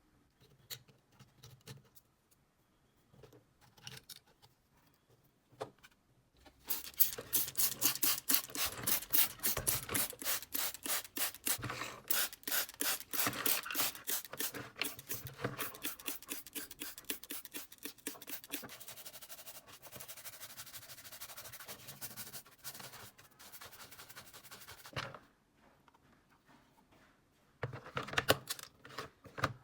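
Rapid back-and-forth rubbing strokes by hand, several a second. They start about six and a half seconds in, louder at first and then softer, and stop abruptly about seven seconds before the end. Scattered light clicks and taps come before and after.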